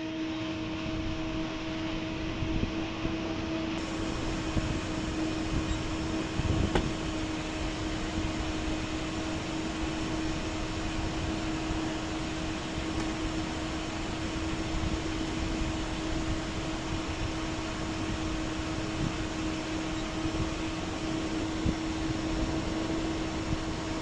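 Fans of a homemade liquid-cooled Peltier air conditioner running steadily: even airflow noise with a steady hum under it, and a faint click about seven seconds in.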